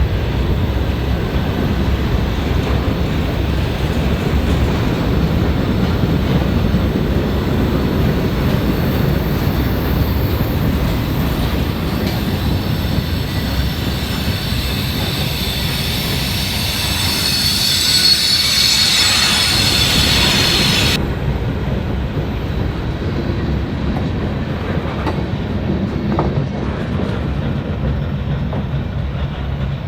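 Train rolling past, steel wheels rumbling steadily on the rails. A high-pitched wheel squeal builds about halfway through and stops abruptly about two-thirds of the way in, while the rumble carries on.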